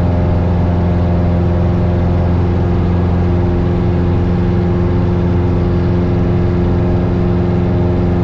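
1972 Cessna Skyhawk's four-cylinder Lycoming engine and propeller running steadily at climb power just after a touch-and-go.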